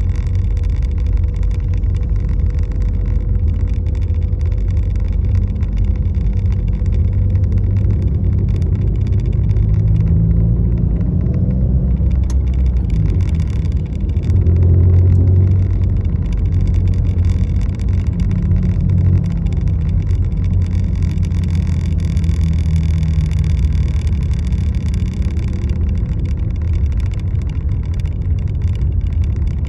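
Steady low rumble of a car, with the sound swelling slightly around the middle.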